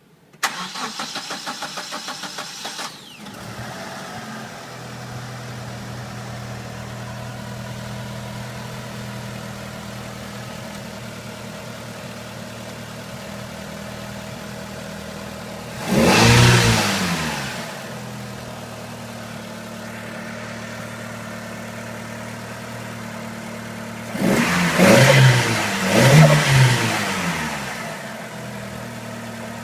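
Mitsubishi 4G63 turbo four-cylinder engine cranking on the starter for about two and a half seconds, then catching and settling into a steady idle. It is revved once about halfway through, then blipped in two or three quick revs near the end.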